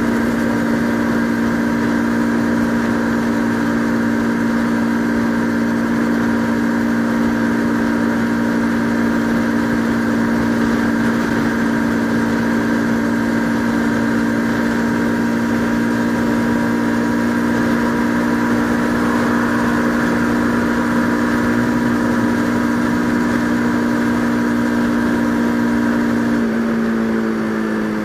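Bajaj Pulsar RS200's single-cylinder engine running at a steady, unchanging speed, heard from the rider's helmet. Near the end the engine pitch drops as the throttle is eased off.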